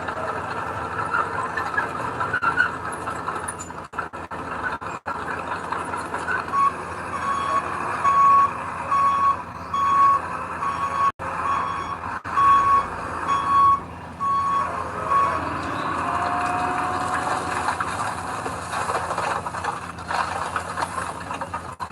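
Construction vehicle's reversing alarm beeping at an even pace, a little faster than once a second, for about nine seconds, starting a third of the way in, over the steady running of heavy-equipment engines.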